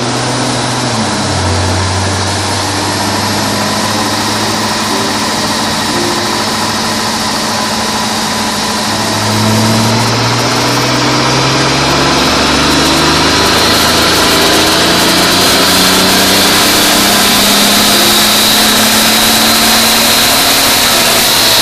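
Ford Granada's engine running hard on a rolling road dyno. Its note climbs slowly, dropping back about a second in and again around nine and a half seconds in, over a high whine that grows louder toward the end.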